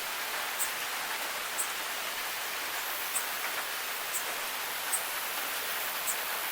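Steady rain hiss, with short high ticks about once a second.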